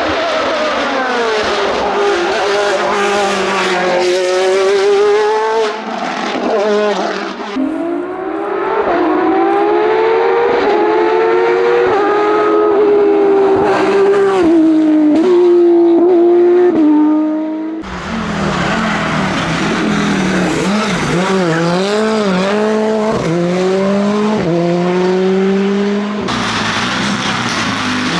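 Racing car engines at full throttle in several separate passes. The pitch climbs through each gear and drops sharply at every upshift, with a run of quick shifts in the middle.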